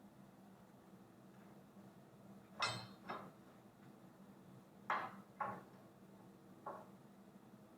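Metal parts clinking and knocking together: five short, sharp clinks, in two quick pairs followed by a fainter single one.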